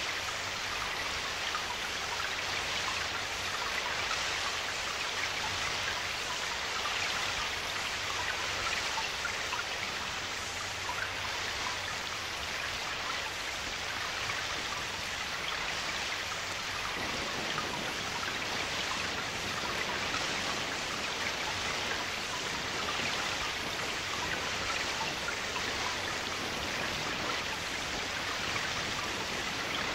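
Steady rain, an even unbroken hiss that gets a little fuller about halfway through.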